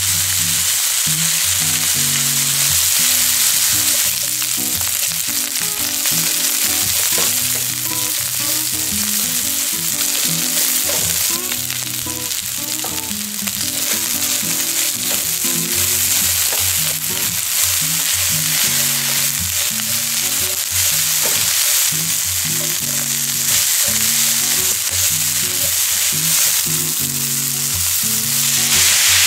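Minced pork, onion, green onion and red pepper sizzling steadily in hot oil as they are stir-fried in a pan, with background music underneath.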